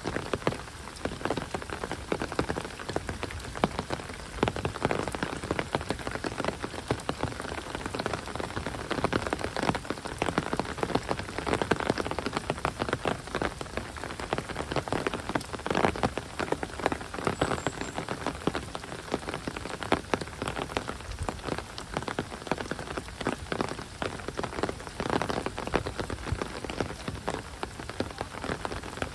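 Heavy rain falling steadily: a dense, continuous patter of raindrops.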